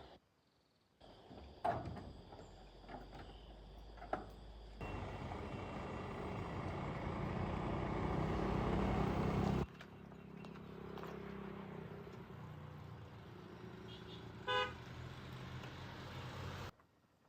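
A road vehicle's engine running and growing steadily louder for several seconds before the sound cuts off abruptly. A quieter, steady engine sound follows, with one short horn beep near the end.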